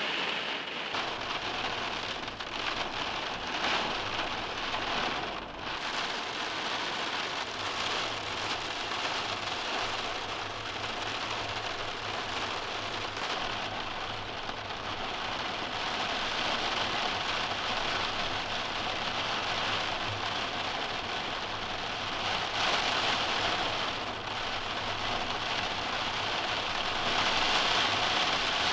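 Steady rain falling, an even hiss of raindrops that holds at a constant level throughout.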